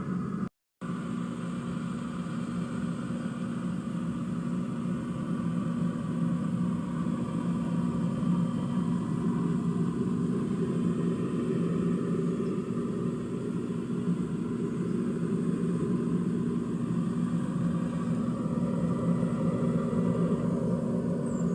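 A steady low mechanical hum that drops out completely for a moment just after the start.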